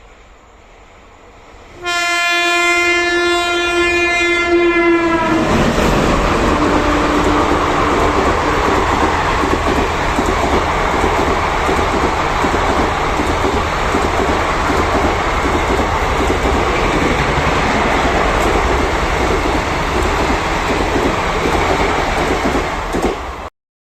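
Express train passing through a station at speed without stopping: the locomotive horn sounds for about three seconds, its pitch dropping as it goes by, then the coaches rush past in a loud steady roar until the sound cuts off abruptly near the end.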